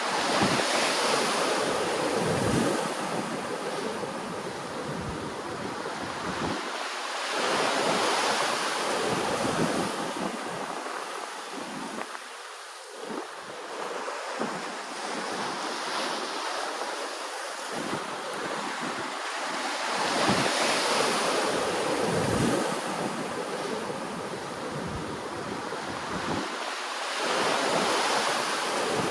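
Ocean waves washing in and draining back, the surf swelling every several seconds, with wind buffeting the microphone.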